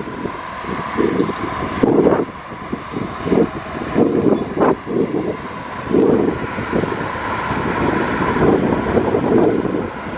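Diesel engine of heavy earthmoving machinery running under changing load, with a steady whine over it and irregular loud surges.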